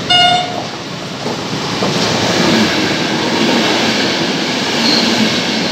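A short train horn blast right at the start, a single steady note, then the continuous rumble and rail clatter of two trains passing each other through the station: a freight train on one track and a passenger train running close by on the other.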